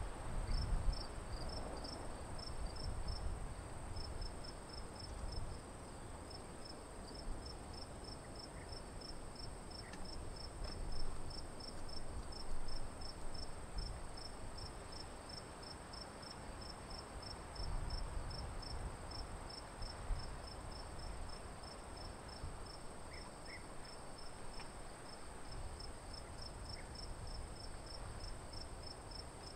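Crickets chirping in an even rhythm of about three high chirps a second, over a low rumble like wind.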